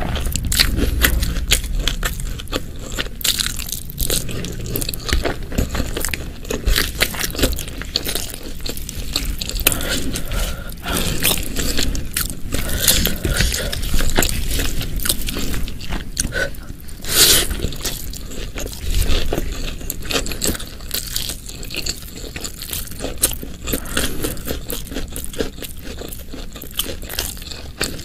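Close-miked ASMR eating sounds: a person chewing and biting food, with a dense run of sticky, wet mouth clicks and one louder bite about two-thirds of the way through.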